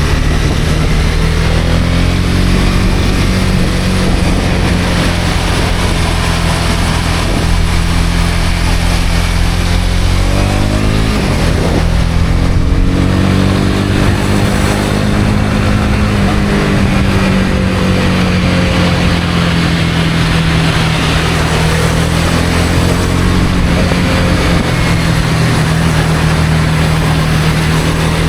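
Honda CB250R's single-cylinder engine running steadily while riding, with wind and wet-road tyre hiss. The engine note dips and climbs again about eleven seconds in.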